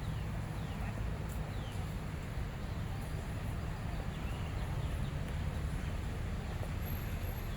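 Steady outdoor background noise with a strong low rumble, a few faint short high chirps and faint distant voices.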